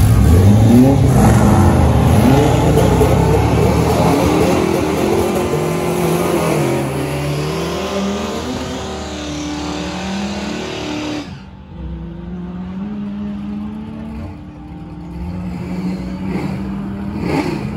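Car launching hard from a drag-strip start line and accelerating away at full throttle, the engine pitch climbing and then dropping back with each of several upshifts. The sound slowly fades with distance and is faint after about eleven seconds.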